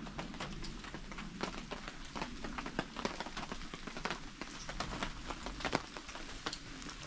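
Rain falling on a campsite, with irregular heavy drops tapping on a fabric canopy over a soft hiss of rainfall.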